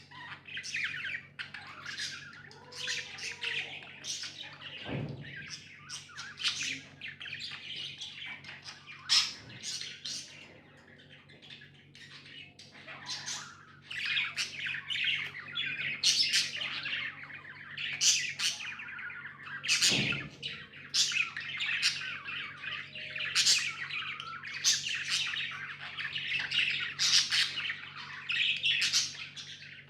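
Pet budgerigars chirping and chattering, many short calls overlapping. The calls thin out for a few seconds around the middle, then grow busier again.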